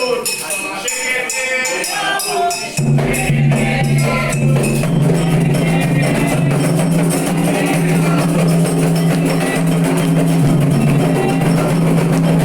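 Candomblé ceremonial music: singing with rattles and percussion. About three seconds in, a steady low hum sets in and holds under it.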